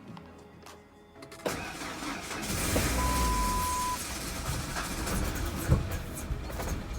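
Truck engine, with a freshly replaced head gasket, being started. It is quiet at first, then turns over and catches about a second and a half in, and keeps running with the throttle given gas.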